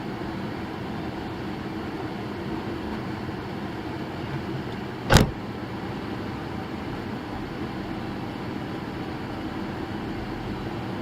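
Steady car road and engine noise heard from inside a moving vehicle, broken once about five seconds in by a single short, sharp bang.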